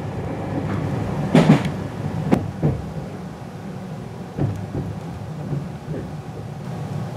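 Cabin rumble of a Meitetsu 2000 series μSKY electric train slowing down as it nears a station, with irregular knocks of the wheels over rail joints, the loudest about a second and a half in.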